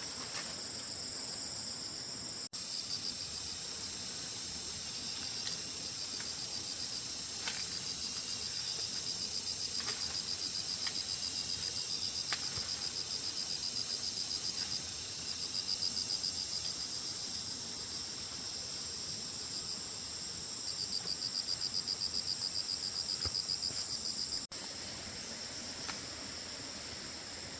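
Insects chirping in a continuous high, rapidly pulsing trill that swells louder a couple of times, with a few faint ticks over it.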